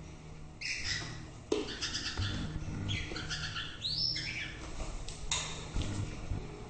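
White-rumped shama singing: several short, varied phrases of whistles and chirps with brief gaps between them, including a quick arched whistle about four seconds in.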